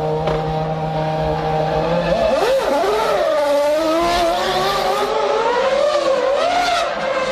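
1999 Formula One car's V10 engine held at a steady pitch during a pit stop, then about two seconds in revving up and down repeatedly as the car is released and pulls away.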